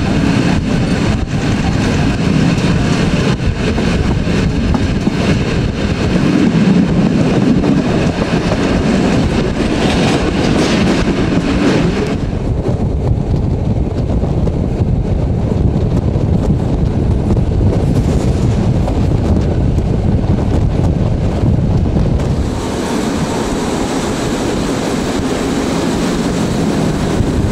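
A historic passenger train hauled by an electric locomotive, running along the line with a steady, loud rumble and rail noise. About twelve seconds in, the hiss in the upper range falls away while the low rumble carries on, and the hiss comes back about ten seconds later.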